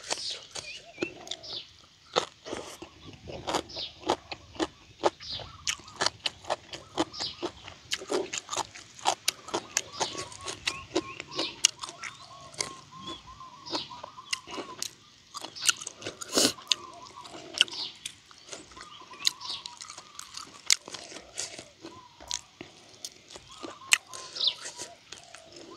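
Close-miked eating: a person chewing and crunching a mouthful of pickled spider-flower greens and grilled frog, with wet mouth smacks and sharp crunches in quick, irregular succession.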